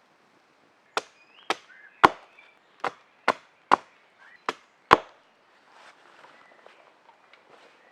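Wood being chopped with a blade: eight sharp strikes about half a second apart, then faint rustling.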